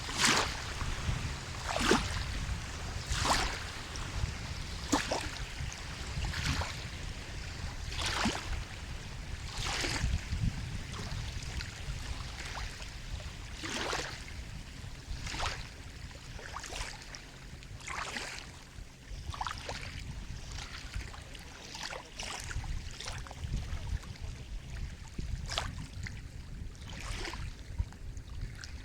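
Sea water lapping and splashing in small waves, a short slap every second or two over a low, steady rumble of the sea.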